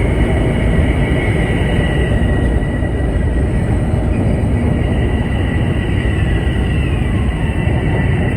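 Metro-North electric commuter train rolling into the station: a loud, steady rumble of wheels on rail with a thin high whine over it.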